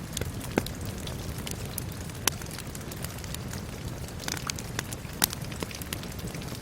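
Wood fire crackling, with irregular sharp pops, three of them louder than the rest, over a steady rumble and the even hiss of rain.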